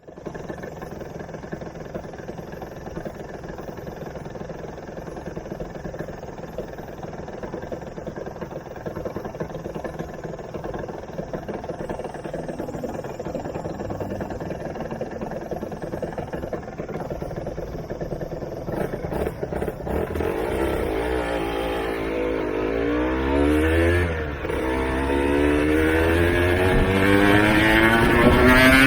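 Aprilia Tuono 125's single-cylinder two-stroke engine with a TYGA exhaust running steadily at low revs for about twenty seconds. It then revs up through the gears, with short rising pulls, a drop in pitch at a shift, and a long rising pull near the end, getting louder.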